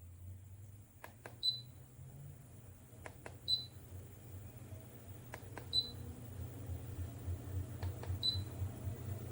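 Under-desk walking pad treadmill running with a low motor hum and rhythmic footsteps on the belt. Four short high beeps sound about every two seconds, each just after a click or two.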